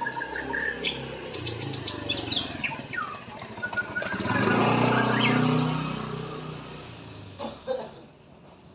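A murai songbird singing a varied run of quick chirps and whistles, several of them gliding down in pitch. About four seconds in, a passing vehicle swells up and fades over about two seconds, briefly louder than the song.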